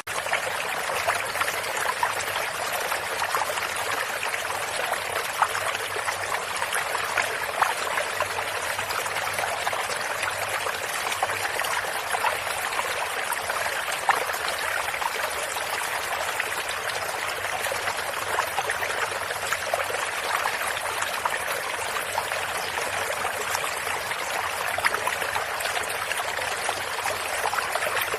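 A shallow stream flowing steadily over stones, with small splashes and trickles scattered through it.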